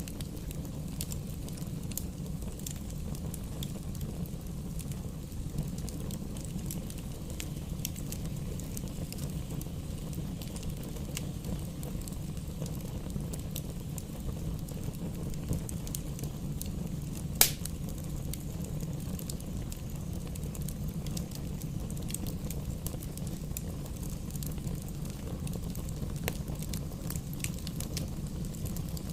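Campfire burning: a steady low rush of flames with frequent small crackles and one sharp, loud pop a little past halfway.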